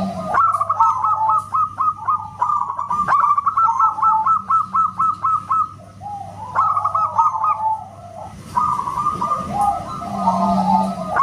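Zebra dove singing: several runs of rapid, short staccato cooing notes, separated by brief pauses and lower warbling phrases.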